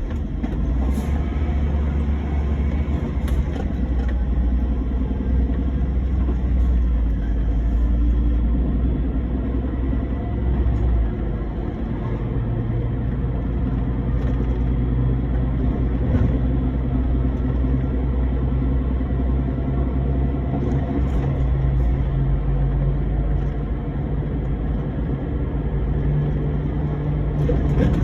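Truck engine running with road noise while driving; about twelve seconds in, the deep rumble gives way to a higher, steadier engine hum.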